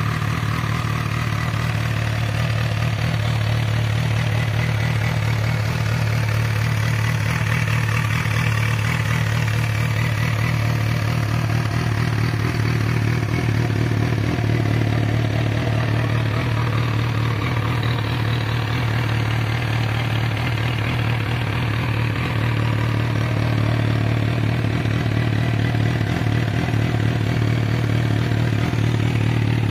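MV Agusta Brutale motorcycle's inline-four engine idling steadily.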